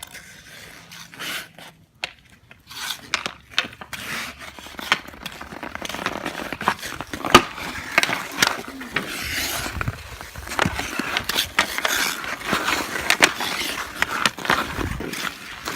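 Hockey game on an outdoor rink: skate blades scrape across the ice, and hockey sticks clack sharply against the puck and each other, many times.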